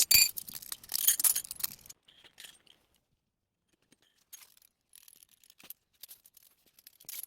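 Small metal parts clinking and jangling for about two seconds, then only a few faint scattered clicks.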